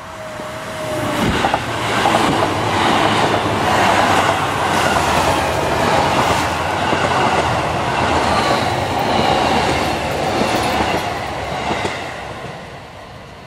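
Seibu 40000 series electric multiple-unit train passing close by at speed, wheels clacking over the rail joints. It builds about a second in and fades away near the end.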